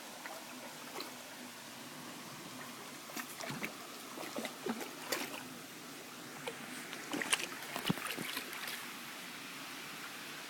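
Cocker spaniel wading in a shallow, muddy water basin, splashing in irregular bursts that come thickest a few seconds in and again near the end, over a faint steady trickle of water.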